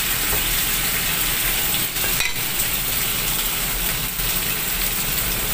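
Thin slices of tofu frying in hot oil in a pan, with a steady sizzle.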